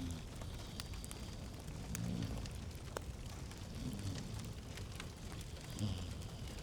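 Wood fire crackling in a fireplace: a steady soft hiss with scattered sharp pops and snaps.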